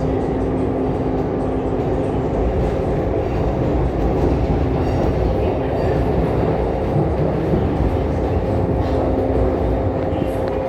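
Running noise heard inside a CRRC Changchun electric multiple unit (MTR C-Train) travelling between stations: a steady rumble with an even two-note electrical hum over it.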